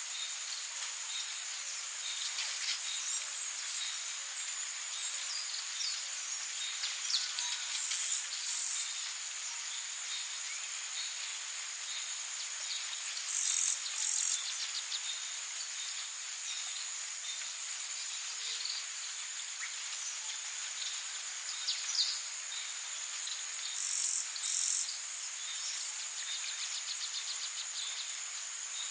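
Tropical rainforest ambience: a steady high-pitched insect drone over an even hiss, with scattered bird chirps. Three times a loud, high double call rings out, each a pair of short pulses.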